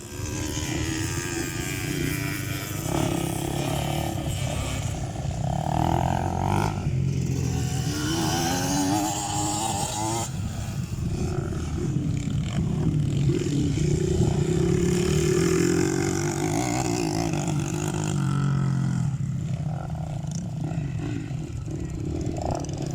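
Motocross dirt bike engines revving, their pitch rising and falling again and again as the throttle is worked.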